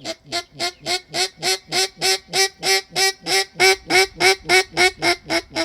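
Handmade mallard duck call blown close by in a long, fast run of about twenty hen-mallard quacks, roughly three and a half a second, each quack dropping in pitch, stopping near the end.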